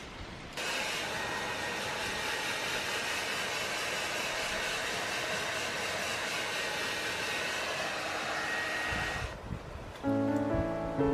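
Hair dryer running steadily with a rushing airflow and a faint motor whine, switched on about half a second in and off after about nine seconds. Piano music begins near the end.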